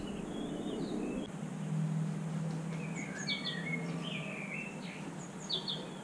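Small birds chirping: scattered short high chirps and brief twittering phrases, busiest in the second half, over a low steady hum.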